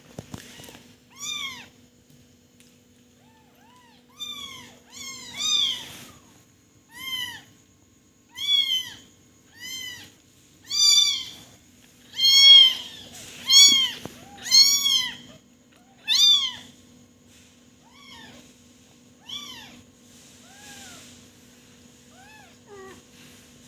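A kitten meowing over and over: about twenty short, high cries, each rising then falling in pitch. They are loudest in the middle and fainter near the end.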